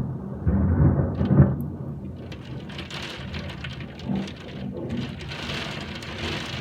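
Thunder rumbling through the first second and a half, then a steady patter of hailstones falling.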